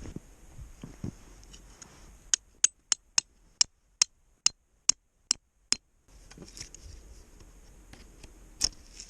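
A series of about ten sharp clicks, a few tenths of a second apart, with near silence between them.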